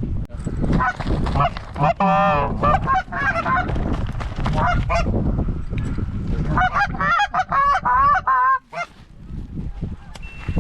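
Goose honks and clucks: a quick wavering series about two seconds in and a longer run of calls from about six and a half to eight and a half seconds. Wind rumbles on the microphone underneath.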